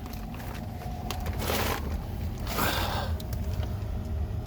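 Steady low rumble of the home's heating unit running, with two short rustling swishes about a second apart near the middle.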